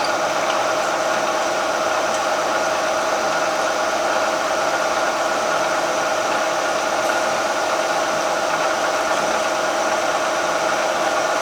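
Milling machine spindle running steadily while a drill bit bores into a steel crankshaft's counterweight, a steady even whine with no break.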